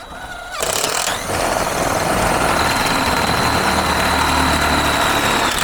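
Cordless drill-driver (screw gun) running steadily at speed with a thin high whine. It spins up in the first second or so and stops abruptly after about five seconds.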